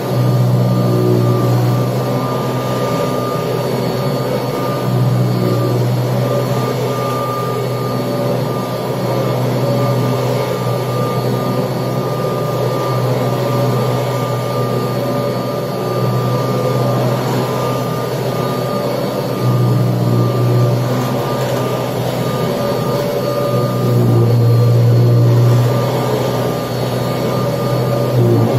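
1979 Kirby Tradition upright vacuum cleaner running while vacuuming, a steady motor whine over a low hum that swells and eases every few seconds.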